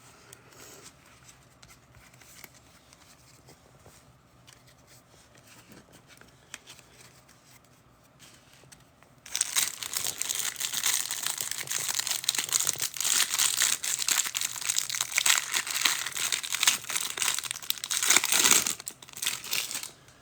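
Faint handling with a few small clicks, then, about nine seconds in, a loud stretch of crinkling and tearing: a trading card pack's wrapper being torn open and crumpled. It stops abruptly about nine seconds later.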